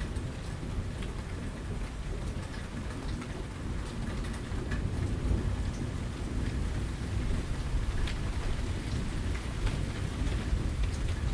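Steady heavy rain falling, with scattered sharp drips and a low rumble underneath throughout.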